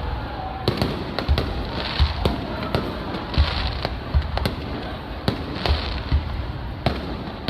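Aerial fireworks going off in quick succession: sharp bangs and deep booms, often several a second, with crackle between them.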